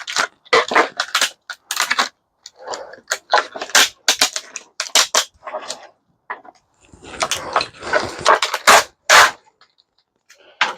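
Screwdriver prying plastic off microwave switch contacts: a run of sharp cracks and clicks, with a longer crunching, scraping stretch about seven seconds in.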